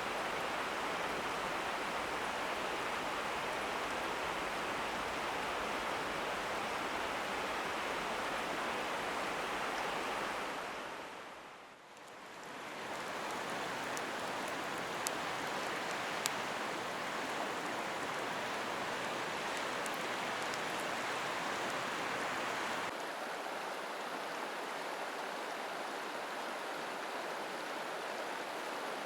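Mountain stream rushing steadily. The water sound fades down and back up about twelve seconds in and changes tone near the end, with two sharp ticks shortly after the dip.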